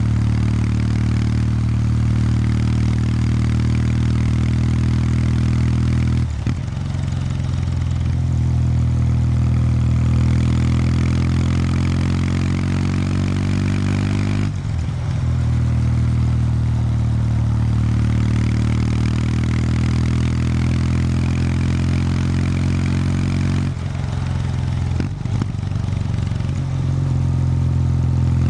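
Kawasaki W800 Street's air-cooled parallel-twin engine running through its stock exhaust while the bike is ridden, a steady low engine note. Three times it dips briefly and comes back, as with gear changes.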